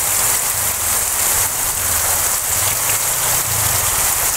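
Heavy rain pouring onto a road: a dense, steady hiss, with a low rumble underneath.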